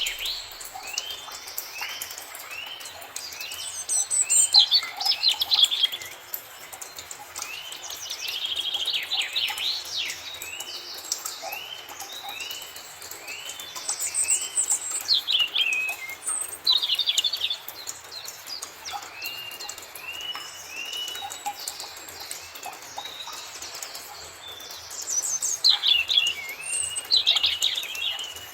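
Forest birds singing. One bird repeats a short, arched whistled note in long series, about two a second. Other birds break in several times with louder, rapid twittering phrases.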